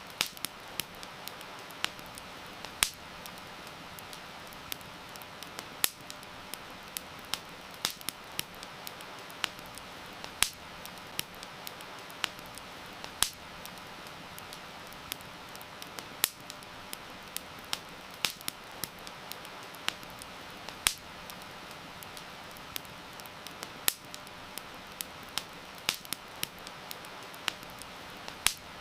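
Campfire crackling, with sharp irregular pops, a few much louder than the rest, over a steady hiss of heavy rain.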